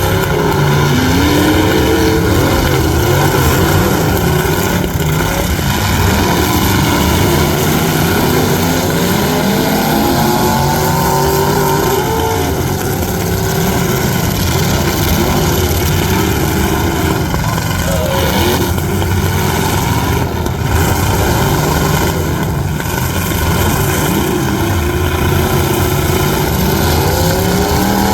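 Truck engines running loudly and revving over and over, the pitch climbing and falling again every few seconds.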